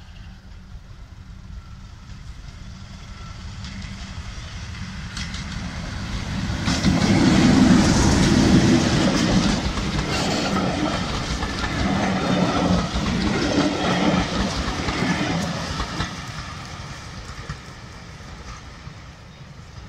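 A Class 37 diesel locomotive and its coaches pass by. The engine and the wheels clicking over rail joints build up to a peak about eight seconds in, stay strong for several seconds, then fade as the train draws away.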